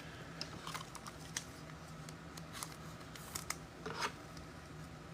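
Faint, scattered light clicks and ticks of trading cards and pack wrappers being handled, over a steady low hum.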